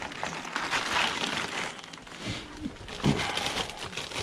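Plastic garbage bags rustling and crinkling as they are rummaged through and moved, with a couple of soft thumps.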